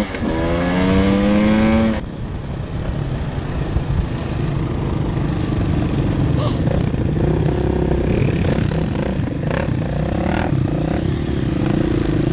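Husqvarna enduro motorcycle engine heard from on the bike. Right at the start the pitch drops with a gear change, then climbs steadily as the bike accelerates. About two seconds in the sound cuts abruptly to a rougher, lower engine note mixed with rushing noise and a few sharp knocks as the bike rides on rough ground.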